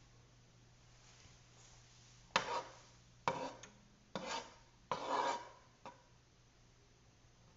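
Four short scraping strokes, each about half a second long and roughly a second apart, followed by a small click.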